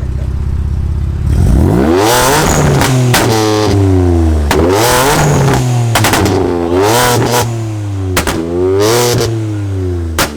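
A car engine idling, then revved hard four times in quick free-revs, each rising and falling back, with sharp exhaust pops and cracks between the revs as the driver tries to make it spit flames.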